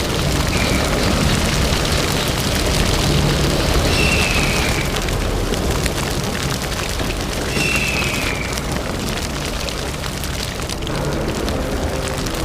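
Forest fire burning: a dense, steady crackling with a low rumble. A short, high, falling cry sounds three times, about four seconds apart.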